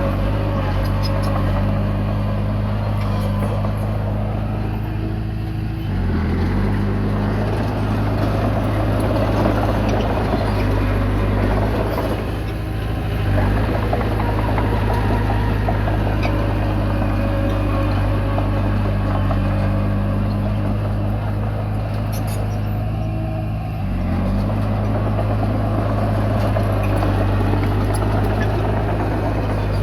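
Komatsu D20P bulldozer's diesel engine running steadily under load. Its note shifts briefly twice, about a fifth of the way in and again about four-fifths of the way through.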